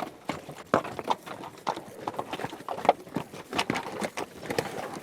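Horse hooves galloping: a quick, irregular run of hoofbeats, several strikes a second.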